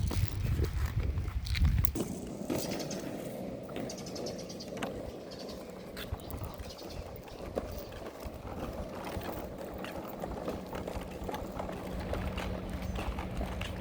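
Outdoor sound of people walking along a street: scattered footsteps, with wind buffeting the microphone for the first couple of seconds and a faint steady hum coming in about halfway through.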